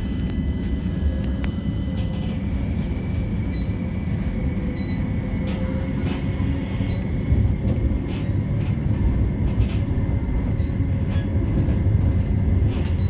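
Inside a CAF Urbos 3 tram: the low rumble of the tram in motion, with a steady electrical whine from the traction equipment that drops in pitch about two seconds in, and scattered light clicks.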